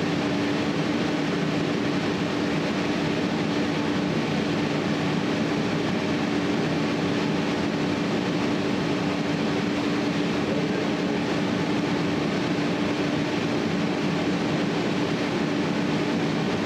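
A steady mechanical hum with one constant low tone under even hiss, unchanging throughout.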